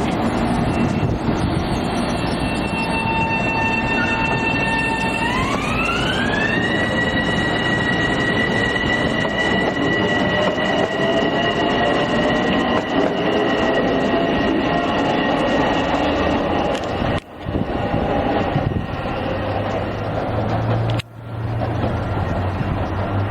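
Long Island Rail Road electric multiple-unit train running close by, with a whine that rises in pitch about five seconds in and then holds steady. The sound cuts out briefly twice near the end.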